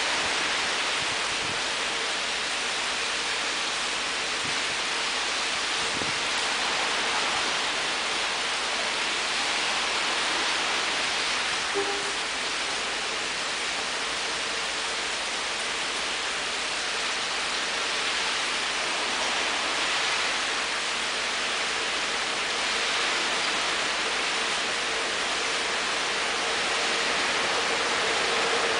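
Steady hiss of falling rain. Near the end a faint steady hum comes in and the level rises slightly.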